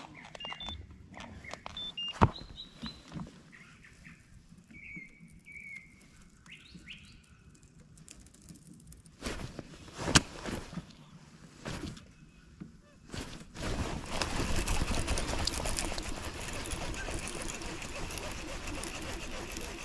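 Small birds chirping in short calls, with a few sharp knocks. About two-thirds of the way through, a steady rushing noise sets in.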